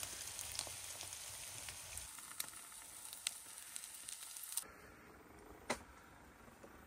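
Meat and eggs sizzling in a frying pan on a portable butane stove, with scattered small crackles. The sizzle cuts off suddenly about four and a half seconds in, leaving a quieter background with a single click.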